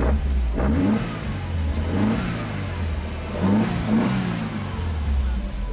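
Alfa Romeo GT Junior 1600's twin-cam four-cylinder engine being revved, its note rising and falling about four times, heard from inside the cabin.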